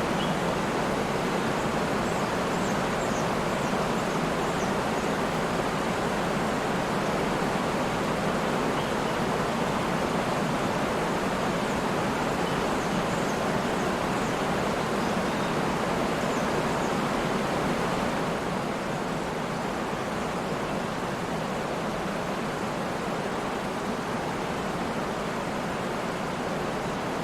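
Waterfall: a steady rush of falling water that goes a little softer for the last third.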